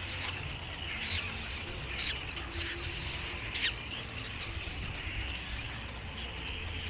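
Small birds chirping: a handful of short, sharp chirps, most of them in the first four seconds, over a steady background of bird chatter and a low rumble.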